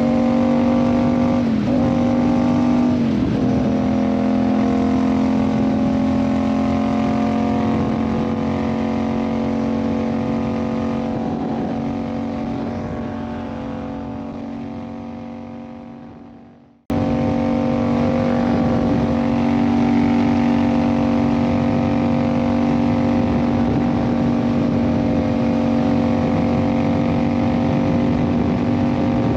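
Yamaha MT-07's 689 cc parallel-twin engine, fitted with an Ixil aftermarket exhaust, running at a steady pitch while riding, with two brief dips in pitch in the first few seconds. Over several seconds the sound fades away to near silence, cuts off, then comes back suddenly at the same steady pitch.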